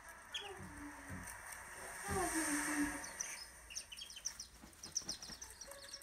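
Bird calls: a few low, falling peeps in the first three seconds, then a run of quick high chirps. A soft hiss-like wash swells about two seconds in.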